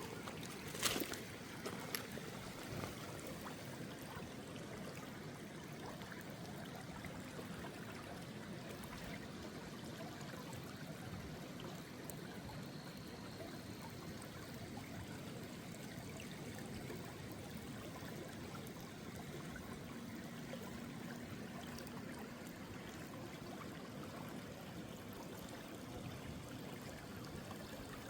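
Small stream trickling and flowing steadily, with a few sharp clicks in the first couple of seconds.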